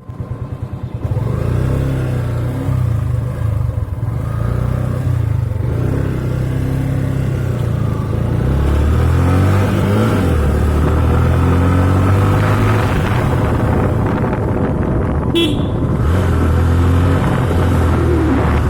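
Yamaha FZ motorcycle engine running, its pitch stepping up and down as the revs change, with a brief high beep about fifteen seconds in.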